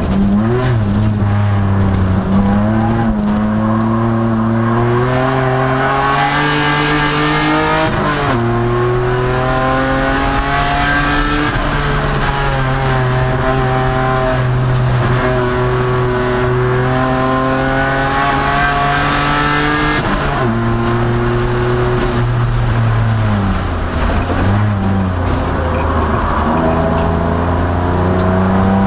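2002 Nissan Maxima race car's 3.5-litre V6 engine at racing speed, its revs climbing, holding and falling several times as the driver lifts and shifts, with sharp drops about a third and about two-thirds of the way in.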